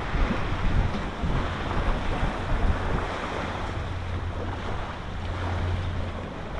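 Wind rumbling on the microphone over a steady rush of surf on a beach.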